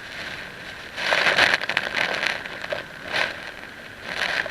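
Water rushing and slapping against a kayak, carried through the hull and the camera mount into an action camera sealed in a waterproof housing. A long crackly surge comes about a second in, then two shorter surges near the end.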